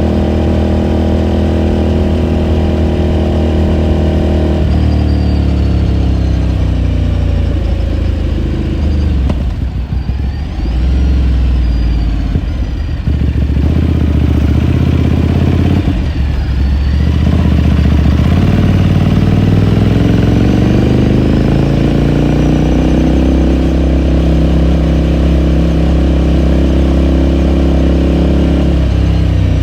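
2018 Ducati Scrambler Sixty2's air-cooled 399 cc L-twin running under way. The engine note holds steady, then falls away from about five seconds in and dips twice as the throttle comes off. It then climbs back up and holds steady, with another drop right at the end.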